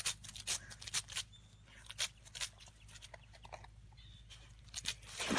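Soft, irregular clicks and smacks from a dog's mouth, over a low steady hum, with a hiss rising near the end.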